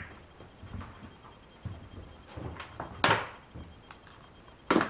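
Two sharp clicks or knocks, one about three seconds in and one near the end, with a few faint low thumps between them.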